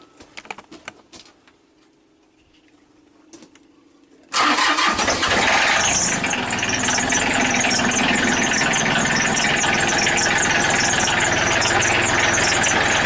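Small diesel tractor engine starting on starting fluid after a cold no-start: a few light clicks, then about four seconds in the engine comes in suddenly and keeps running, loud and steady.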